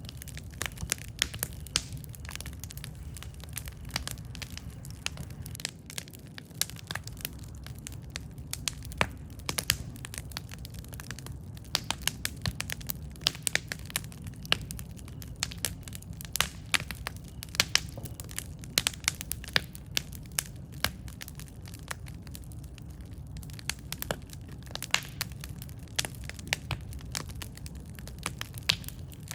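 Campfire burning: irregular sharp crackles and pops from the burning wood over a steady low rumble of flame.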